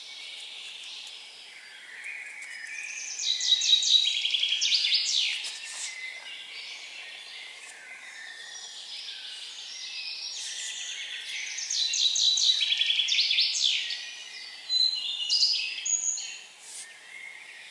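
A songbird singing in forest, two fast trilling song phrases about nine seconds apart, each dropping in pitch over a couple of seconds, with fainter birdsong around them.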